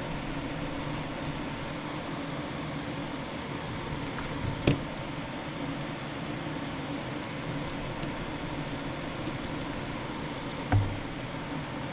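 A steady mechanical hum, with a sharp click about halfway through and a low thump near the end.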